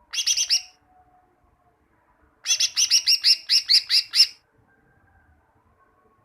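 Green leafbird (cucak ijo) song: a quick burst of about four sharp notes, then after a pause of nearly two seconds a rapid run of about ten repeated, downward-sweeping notes.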